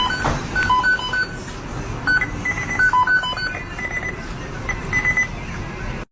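A quick series of short electronic beeps at a few different pitches, like keypad or dialing tones, over a steady background hiss.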